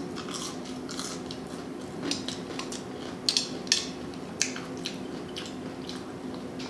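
Close-miked eating: a person chewing and smacking, with scattered short crisp clicks and a few louder ones in the middle, over a faint steady hum.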